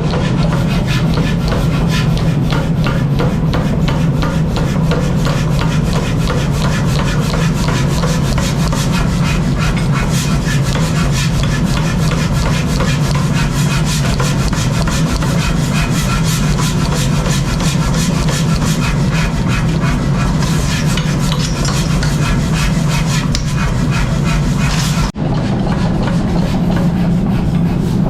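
Workshop machine running with a steady low hum under a continuous rapid rasping and scraping of a tool working material, broken by a brief drop about 25 seconds in.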